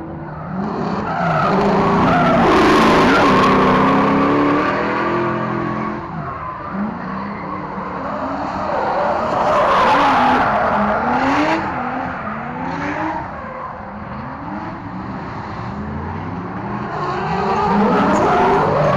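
Drift car engine revving hard, its pitch rising and falling again and again, with tyres squealing and skidding. It is loudest about two to five seconds in and again around ten seconds.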